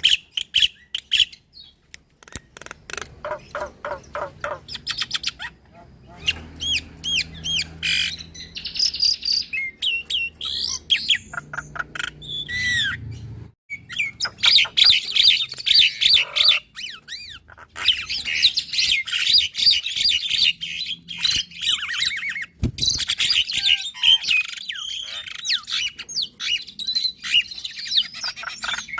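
Javan myna and black-winged starling singing in duet: a fast, busy stream of whistles, chattering and clicking notes, with a brief pause about halfway through.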